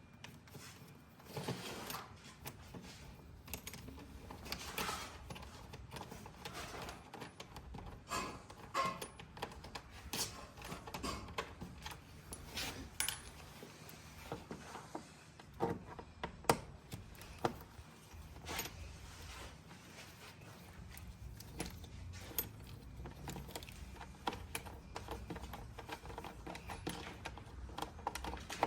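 Irregular clicks and clinks of small plastic grille pieces and clips being handled and worked loose from a car's front grille.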